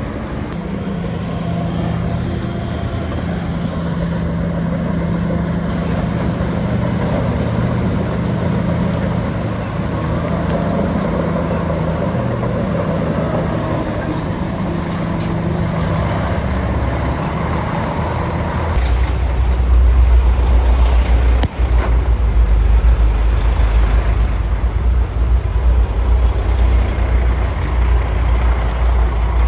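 Bulldozer's diesel engine running steadily, then from about two-thirds of the way in it turns deeper and louder, as if under heavier load.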